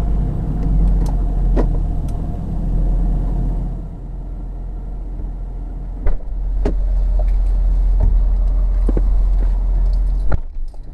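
A motor vehicle running with a steady low rumble, with a handful of sharp clicks and knocks over it.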